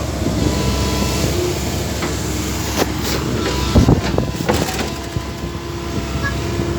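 A vehicle engine running steadily, with scattered knocks and rattles over it.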